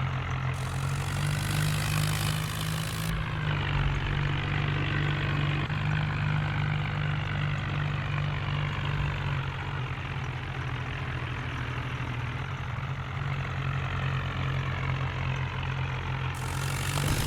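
Tractor diesel engine running steadily at an even speed, a continuous low hum.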